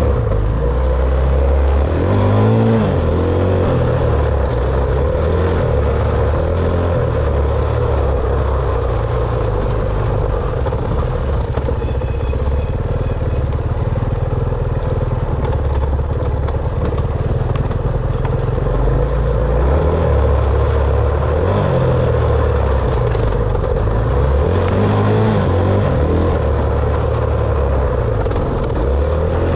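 Dirt bike engine running under load while riding, with the revs rising and falling several times as the throttle opens and closes.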